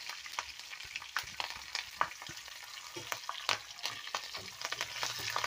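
Tempering for pongal sizzling in hot ghee in a small pan as green chillies and curry leaves go in with pepper, cumin, cashews and grated ginger, stirred with a wooden spatula. A steady sizzle with many scattered sharp clicks and pops.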